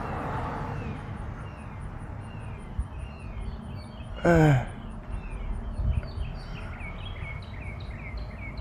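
Low rumble of distant car traffic, with a bird giving many short falling chirps and an insect keeping up a high, fast-pulsing call. About four seconds in, a person lets out a short falling grunt.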